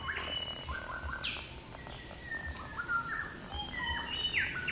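Forest birds calling: a string of short whistled notes, some held briefly on one pitch and some sweeping sharply downward, overlapping one another, over a steady high-pitched hiss.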